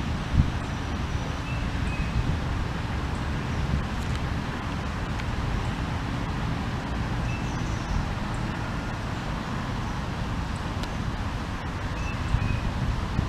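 Steady low outdoor rumble of wind and distant traffic, with a faint short bird chirp three times, about every five seconds.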